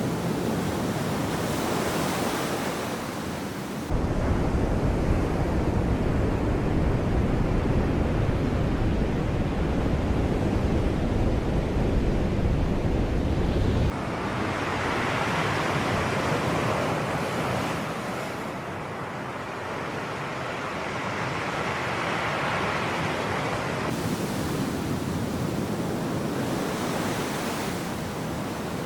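Sea waves washing on the shore, with wind rumbling on the microphone. The sound switches abruptly about four seconds in to a heavy, deep wind rumble. About ten seconds later it switches back to the brighter hiss of surf.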